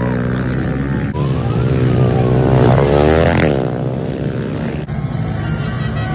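Motocross bike engines revving hard, the pitch climbing and dropping as riders work the throttle. About three seconds in, one bike rises in pitch and falls away as it passes close. The sound shifts abruptly about a second in and again near the five-second mark.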